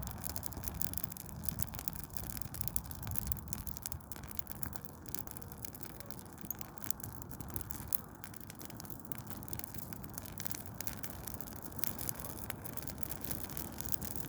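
Burning Douglas fir Christmas tree crackling: dense, irregular cracks and pops over a low steady rumble.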